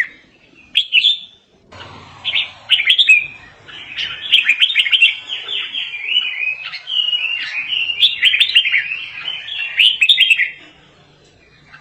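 Birds chirping: a few short chirps, then from about two seconds in a dense, rapid chatter of high chirping notes that dies away near the end.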